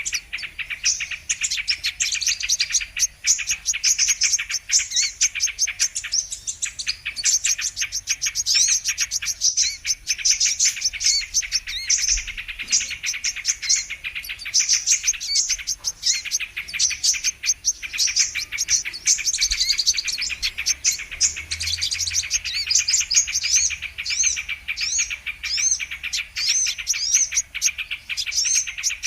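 Brown-throated sunbirds (kolibri kelapa) singing and twittering: a dense, unbroken run of rapid high chirps, many a second, with short sweeping notes mixed in.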